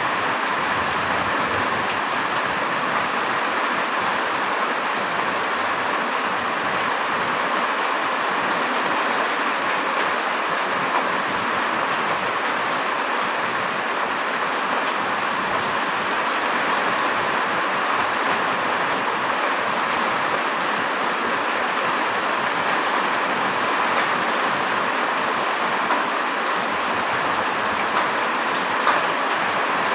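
Steady heavy rain, an even hiss with a few faint ticks of drops.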